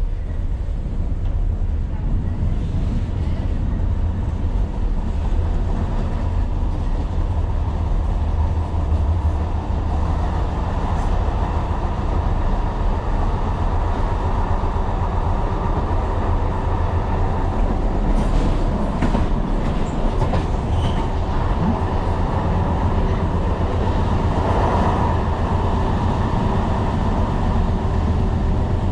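Tyne and Wear Metro train running along the track, heard from inside the car: a steady low rumble of wheels on rail, with a few sharp clicks of the wheels over rail joints about two-thirds of the way through.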